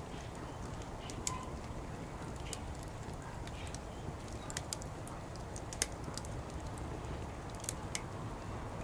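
Wood fire burning in a fire pit, crackling with scattered sharp snaps and pops over a steady low background noise.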